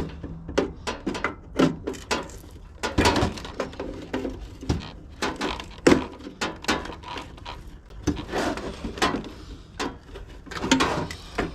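Irregular clicks, knocks and snaps of plastic fasteners being squeezed, pulled and popped loose from copper parts, with handling rattles in between.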